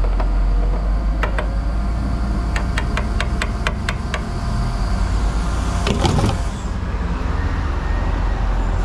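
Lorry engine running with a steady low rumble. A quick run of sharp clicks comes about three seconds in, and a brief rustling clatter about six seconds in.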